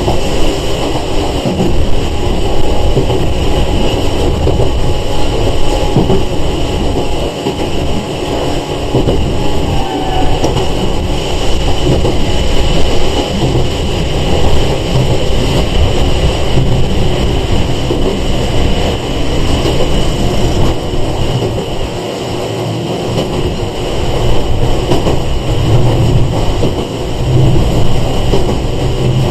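Running noise inside a Sanki Railway 101 series electric train (ex-Seibu 401 series) in motion: a steady rumble of wheels on rail with a constant high whine above it.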